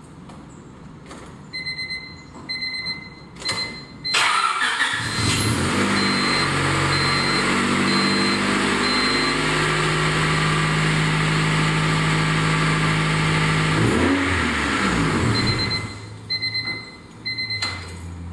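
Honda del Sol warning chime beeping, then the engine cranks and catches about four seconds in and idles steadily for some ten seconds, starting normally now that the clutch pedal can be pushed fully down to close the clutch interlock switch. The engine note dips and rises briefly, the engine is switched off about two seconds before the end, and the chime beeps again.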